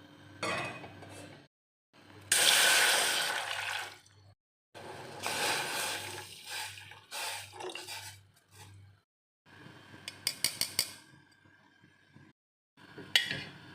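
Kitchen sounds in short separate clips with brief silent gaps between them: running water and the clink of glass and dishes. A quick run of sharp clinks comes about ten seconds in, and a single sharp knock near the end.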